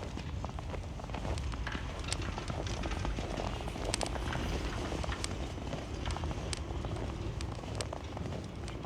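Footsteps crunching on snow at a walking pace, crisp short crunches over a low steady rumble.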